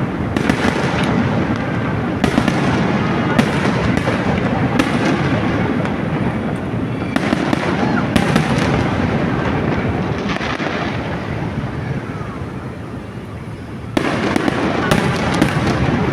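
Fireworks display: a dense, continuous run of bangs and crackling. It eases off for a couple of seconds about twelve seconds in, then a sharp bang about fourteen seconds in starts another dense stretch.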